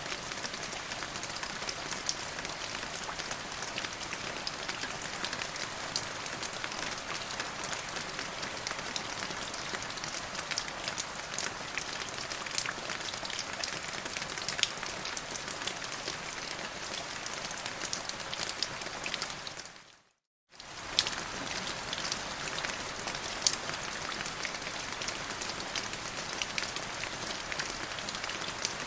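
Steady rain falling, an even hiss dotted with sharp drop ticks, which fades out to silence for about half a second and straight back in roughly two-thirds of the way through.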